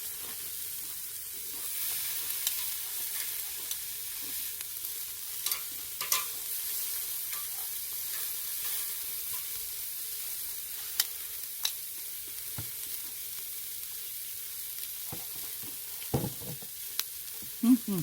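Pork neck sizzling on a grill over a charcoal brazier: a steady high sizzle with scattered sharp pops as fat drips onto the coals. There are a couple of dull knocks about two seconds before the end.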